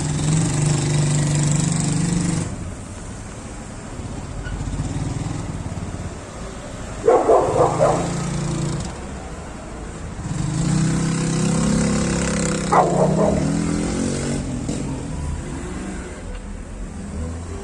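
A vehicle engine revving in long swells of a couple of seconds each, with a dog barking in short bursts twice along the way.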